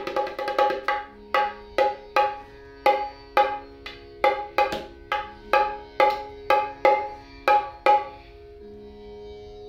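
Dholak played in a steady rhythmic pattern for a tone check, about two strokes a second, each stroke ringing with a clear pitch; the drum is tuned to the fourth black key (kaali 4). The playing stops about a second before the end, leaving the ring to fade.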